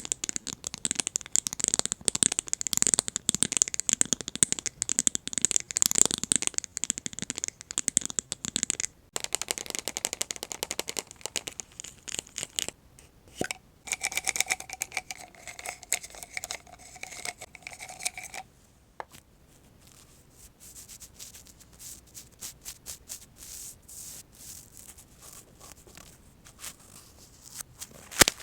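ASMR trigger sounds: a rhinestone-studded 'cubic plate' scratched and tapped in a dense crackling clatter. About nine seconds in it stops and brush strokes take over, thinning to sparse light taps near the end.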